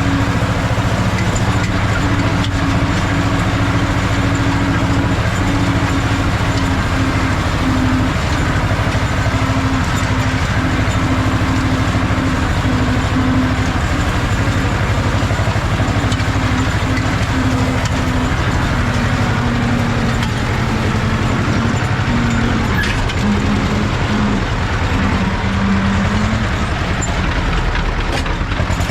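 Ursus C-330 tractor's two-cylinder diesel engine running steadily while pulling a hay rake. Its pitch sags a little about two-thirds of the way through and picks up again near the end.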